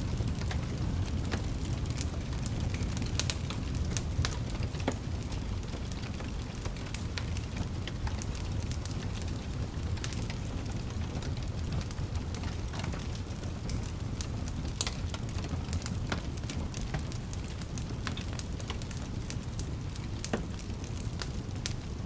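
Wood fire burning in a fireplace, a steady low rumble of flames with frequent sharp crackles and pops scattered irregularly throughout.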